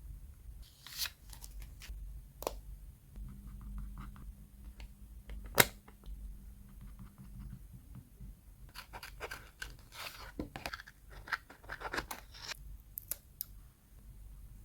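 Scissors cutting paper in short snips with paper handling in between, the snips coming thick and fast over several seconds in the latter half; a single sharp click about halfway through is the loudest sound.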